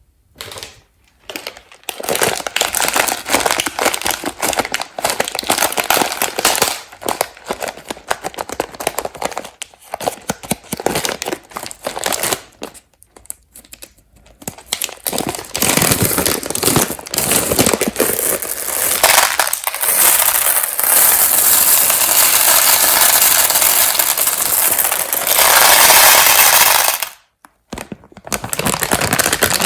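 Peanut M&M's clattering and rattling against a hard surface, many small hard-shelled pieces clicking together. The clatter thickens into a dense, continuous rattle in the second half and cuts off abruptly near the end before starting again.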